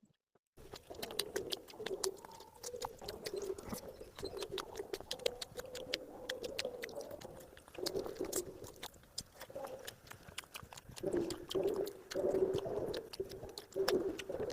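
Close-up chewing, with many sharp clicks and smacks of food being bitten and chewed. Underneath is a low wavering tone that comes in swells, loudest in the last few seconds.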